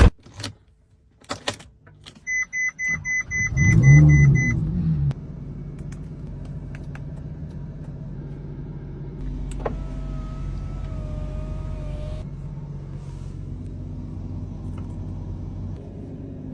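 Ferrari 458 Italia's V8 being started: a few clicks, then a run of quick beeps. The engine fires with a loud flare about four seconds in and settles into a steady idle.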